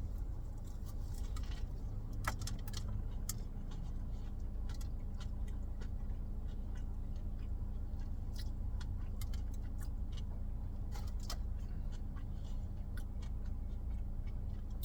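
Close-up chewing and mouth clicks while eating a fried-chicken biscuit sandwich, irregular sharp ticks over a steady low hum like a car's engine or fan.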